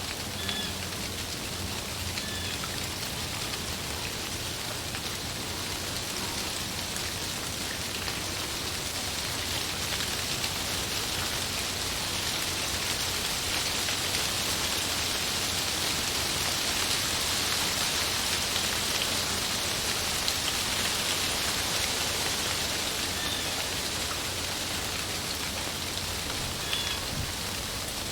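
Wind rustling through tree leaves, a steady hiss that swells gradually in the middle and eases again, with a few faint short high chirps.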